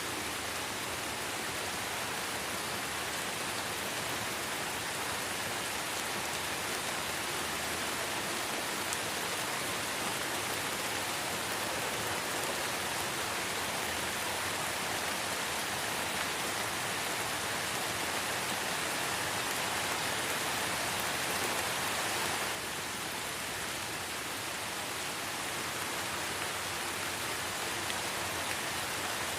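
Light rain falling steadily in a forest, an even hiss of many drops. The level dips slightly a little over three-quarters of the way in.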